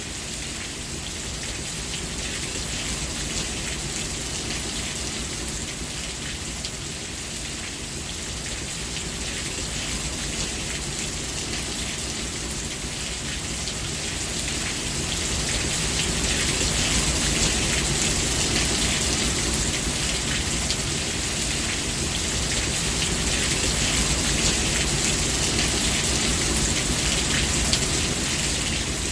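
Steady rain falling, a dense even hiss of drops that grows somewhat louder about halfway through.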